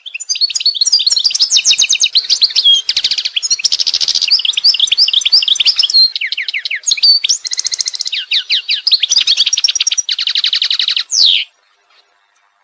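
A songbird sings one long, varied song made of fast trills and runs of repeated notes, changing phrase every second or so. It is loud and close, and the song stops abruptly about eleven and a half seconds in.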